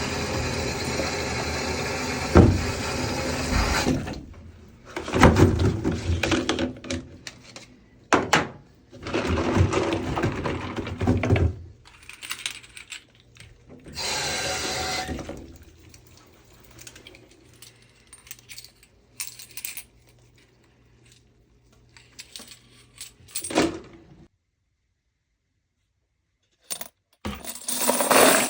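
Brass cartridge cases and metal reloading tools clinking and clattering as ammunition is reloaded, heard as a string of separate bouts. A steady mechanical noise opens it, and the sound drops out entirely for a few seconds near the end.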